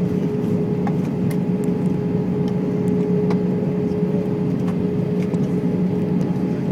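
Steady drone of a jet airliner's engines and airflow heard inside the passenger cabin, with a constant hum and a few faint ticks.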